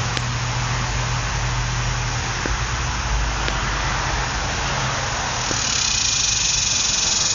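Cicada buzzing, swelling to a loud high buzz near the end, over a steady rushing background noise and a low hum that fades in the first few seconds.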